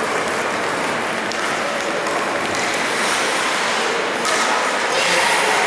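Ice hockey rink game noise: a steady wash of crowd noise with a few faint clicks of sticks or puck, growing a little louder about four seconds in.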